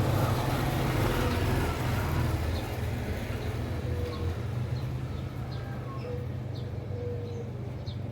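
Low steady rumble of a motor vehicle that slowly fades away, with a few short, high chirps from small cage birds over it.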